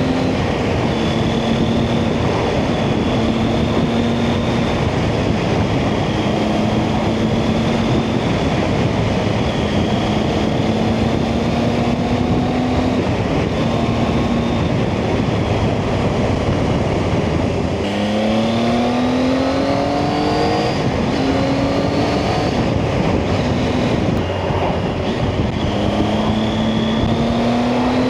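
Motorcycle engine running on the road under heavy wind rush on the microphone. The engine pitch climbs as it accelerates about 18 seconds in and again near the end.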